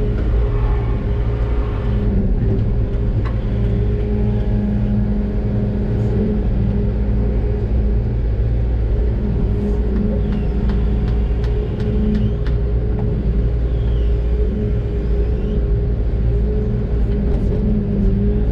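Large diesel engine of a Doosan DX600 excavator, heard from the cab, running steadily as it works, with a few short clicks and faint whines that rise and fall midway through.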